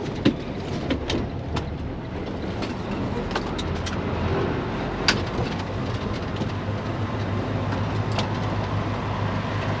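Semi truck's diesel engine running steadily, with scattered sharp clicks and rattles over it, the loudest about a quarter second in and about five seconds in.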